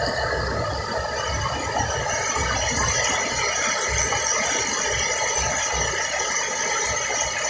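Rushing water of a reservoir overflowing its spillway, a steady rushing noise, with wind gusting on the microphone.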